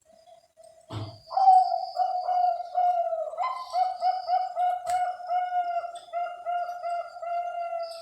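Bangkok-strain perkutut (zebra dove) cooing: a long run of evenly repeated soft notes, about two to three a second, after a low thump about a second in.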